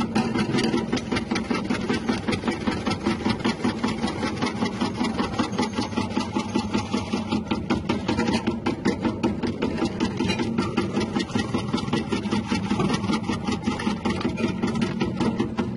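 Motor-driven cassava chip slicer running, its electric motor humming steadily under a rapid, even clatter from the spinning blade mechanism.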